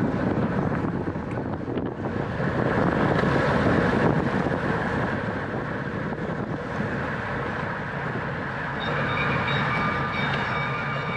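Wind rushing over the microphone and road noise from a racing bicycle at speed, a steady rushing rumble. About nine seconds in, a steady high-pitched whine joins it.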